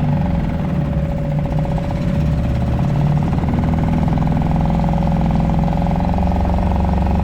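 Suzuki DF2.5 four-stroke outboard motor running steadily at idle with its lower unit in a bucket of water.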